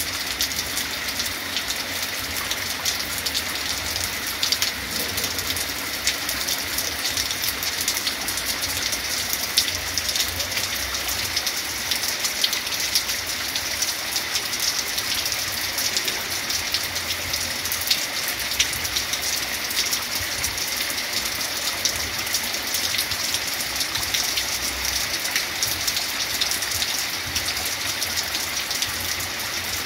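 Heavy rain falling steadily: a dense, even hiss peppered with many small drop ticks.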